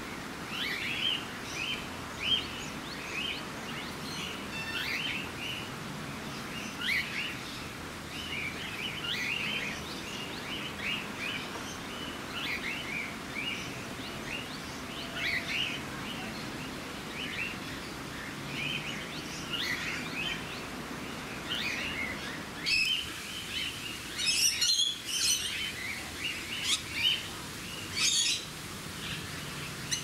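Birds chirping: many short high chirps throughout, with a cluster of louder, sharper calls in the last quarter.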